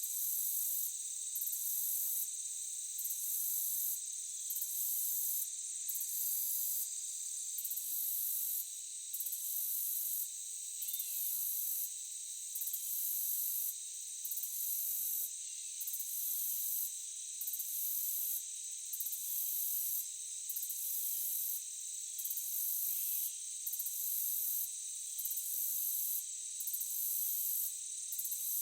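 Insect chorus of crickets trilling steadily, over which a higher buzz pulses on and off about once a second.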